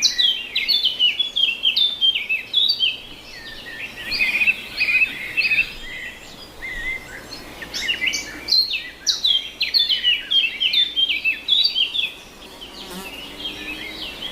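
Many small birds chirping and chattering at once, a dense run of quick, overlapping downward-sweeping chirps. The chatter thins out around the middle and again near the end.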